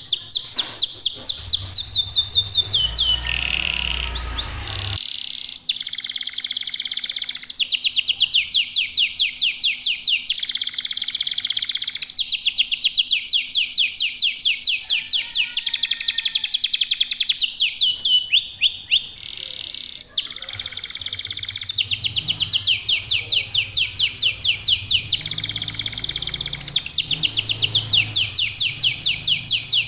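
Local canaries singing fast trills of rapidly repeated high notes, phrase after phrase with short breaks between them.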